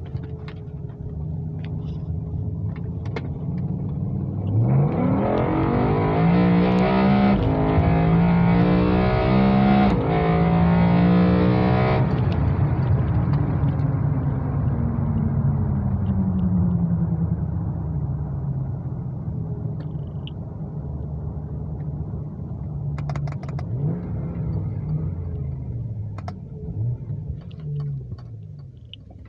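BMW E60 M5's V10 engine with carbon fibre intake plenums, its intake sound rising hard under full-throttle acceleration with two upshifts, then lifting off about halfway through and winding down as the car slows.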